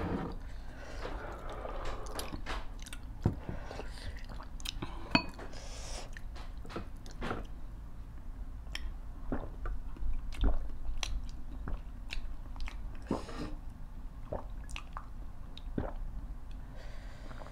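Close-up mukbang eating sounds: chewing, lip smacks and sharp mouth clicks from two people eating rice and vegetables by hand, with a few soft sips from mugs.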